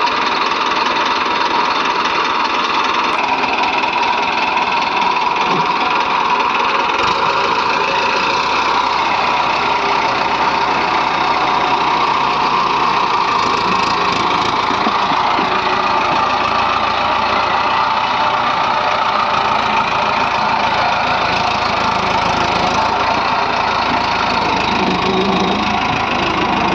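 Diesel engine of a JCB 3DX backhoe loader or farm tractor running steadily while soil is loaded.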